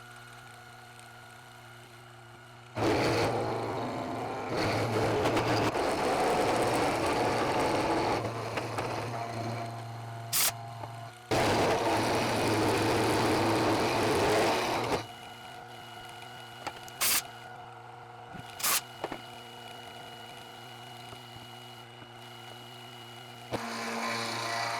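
Milling machine running with a steady hum while its cutter cuts the 40-degree bed into a steel plane sole, in two loud cutting passes of a few seconds each, with a few sharp clicks between them.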